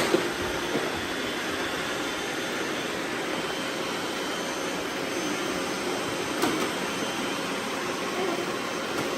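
Several robot vacuums running together with a steady whirring hum, broken by a couple of brief clicks.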